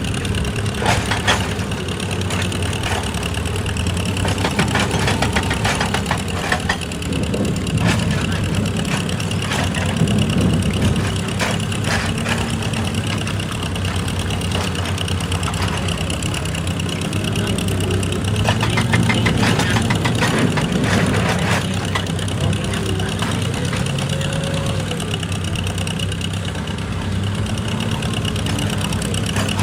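Heavy machinery diesel engine running steadily, with scattered knocks and clatter over it.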